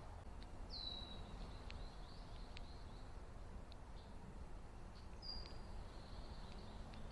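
Faint bird calls: two short, high chirps that fall in pitch, one about a second in and one after about five seconds, with a few tiny ticks over a low steady rumble.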